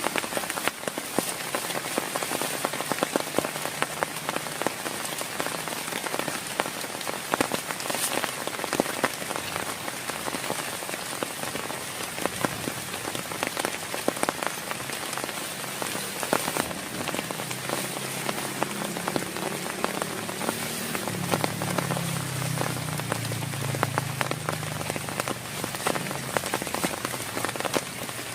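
Heavy rain falling steadily, a dense hiss of many individual drops striking a surface.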